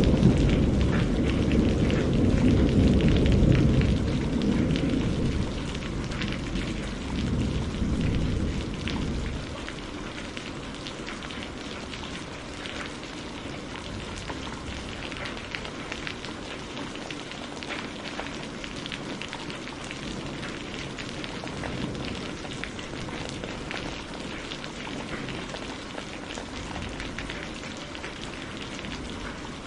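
Steady rain falling, with a dense patter of individual drops. A deep rumble of thunder is dying away at the start and fades out over the first nine seconds or so.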